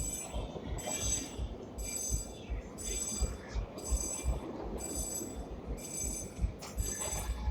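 Steam locomotive's bell ringing steadily, about two strokes a second, over the low rhythmic rumble of the train running.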